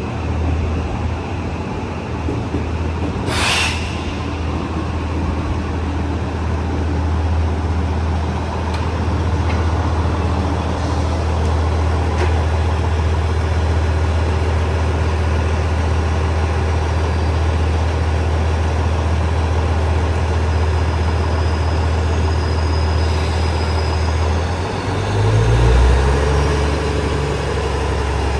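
Diesel train engine idling with a steady low drone at the platform, a short burst of air hiss about three seconds in, typical of air brakes. Around 25 seconds in the engine note shifts up and back down as it changes speed.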